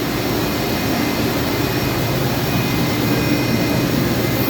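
Mori Seiki SV-503 CNC vertical machining center running under power: a steady mechanical whir and hiss with faint, thin high whines held steady above it.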